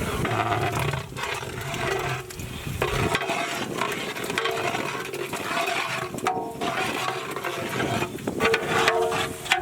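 Spices frying in hot oil in a large cooking pot, with yogurt just added: a dense, steady sizzle, broken by a few short dips.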